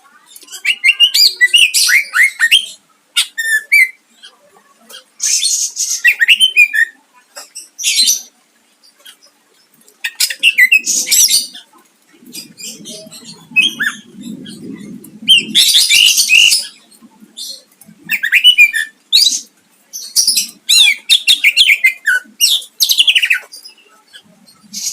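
Green leafbird (cucak ijo) singing in loud bursts of varied phrases: sharp whistled notes, quick slurred glides and rapid trills, broken by short pauses. This is the bird's full song, rich in mimicked phrases and sharp 'shot' notes.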